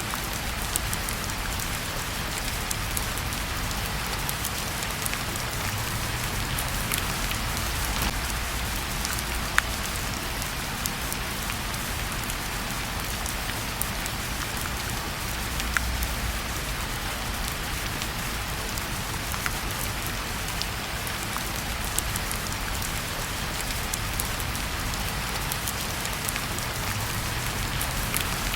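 Steady heavy rain with a low rumble underneath, mixed with scattered sharp crackles from a fireplace fire.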